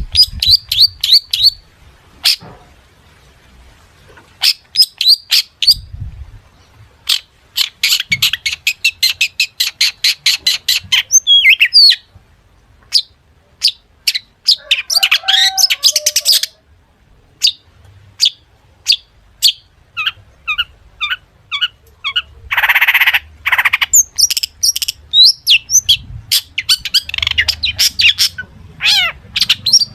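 Long-tailed shrike (cendet) singing a varied song packed with mimicry: runs of sharp high chips, fast trills and rattles, broken by one harsh rasping squawk about two-thirds of the way through.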